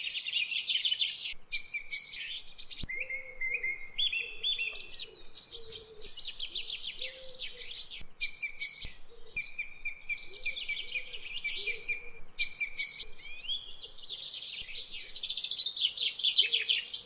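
Birds singing: quick high chirps and trills, almost without a break, with fainter lower calls underneath.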